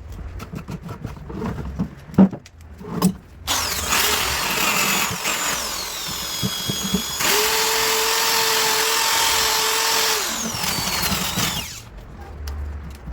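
A small handheld electric power tool, like a drill or rotary tool, working plastic. It starts about three and a half seconds in after a few light knocks and clicks, runs for about eight seconds with its pitch falling, then holding steady, then falling again as it winds down, and stops near the end.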